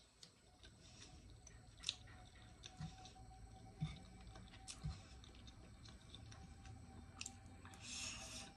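Faint chewing and mouth sounds of someone eating stir-fried noodles, with a few soft clicks scattered through it and a brief hiss of breath or slurp near the end.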